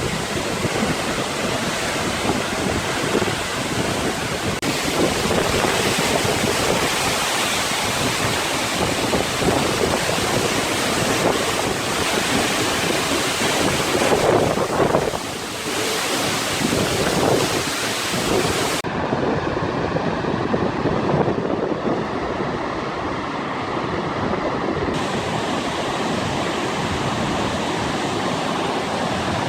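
Steady rush of water with wind buffeting the microphone, changing abruptly several times where shots are cut together.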